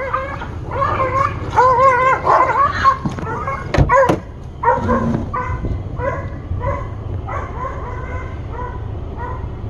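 Dogs in a fit, barking and yelping: wavering, high yelps packed together for the first three seconds, then shorter yelps about two a second. A sharp knock about four seconds in.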